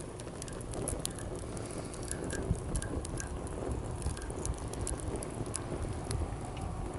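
Wood fire crackling, with scattered sharp pops and snaps, over a steady low wash of sea waves.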